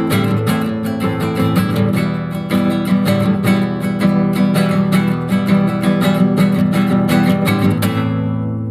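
Acoustic guitar strummed in a steady rhythm, the last chord left ringing and fading near the end.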